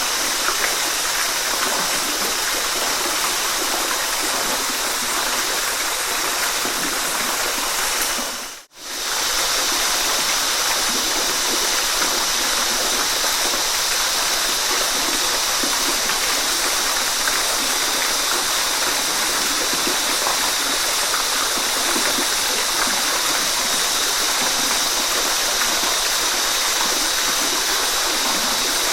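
Waterfall: a steady rush of falling water with a bright, hissy spray. About nine seconds in, it fades briefly almost to silence and swells straight back.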